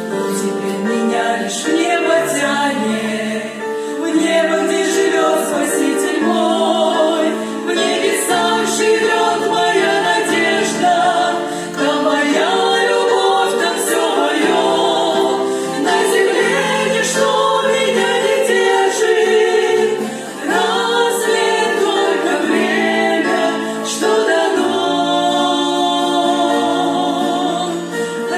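Church praise choir singing a Russian worship song in several-part harmony, with held chords over a low line that moves between notes.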